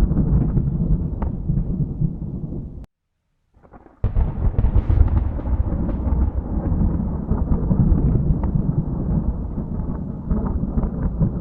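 Thunder rumbling in deep rolls with scattered crackles. Near three seconds in it cuts off abruptly for about a second, then comes back suddenly with a sharp crack and rolls on.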